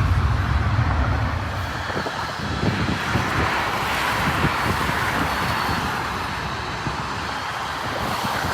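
Jet aircraft engine noise: a deep rumble that fades within the first second, then a steady rushing roar, with wind buffeting the microphone.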